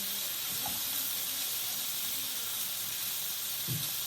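Steady sizzling hiss of food frying in a pan.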